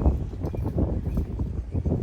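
Wind buffeting the microphone: an uneven low rumble with light rustling.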